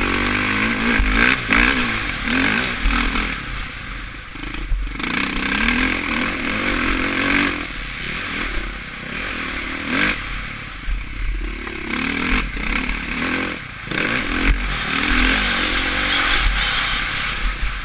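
Suzuki RM-Z450's four-stroke single-cylinder engine revving up and down as the motocross bike is ridden, heard from a helmet camera. A few sharp knocks and clatter cut through, about five, ten and fourteen seconds in.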